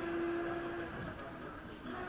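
Race car engine heard from a distance, holding one steady note, fading away about a second in.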